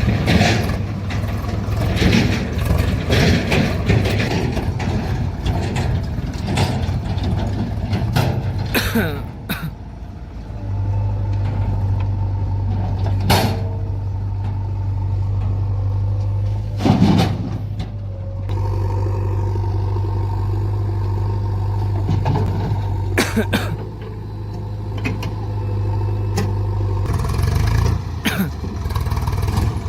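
Diesel engines of a JCB backhoe loader and tractors running steadily, with clanks and knocks now and then as the loader works loading soil.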